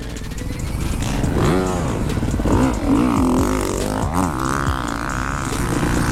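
Dirt bike engines revving: several quick rises and falls in pitch, about a second and a half in, around the middle and about four seconds in, over a steady low engine drone.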